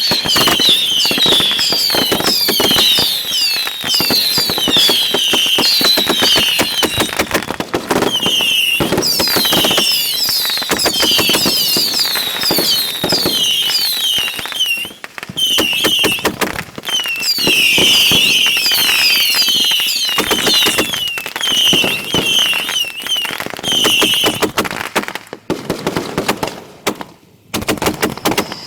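Fireworks at close range firing a dense, rapid barrage: overlapping bangs and crackling mixed with many short whistles. The barrage thins to scattered reports in the last few seconds.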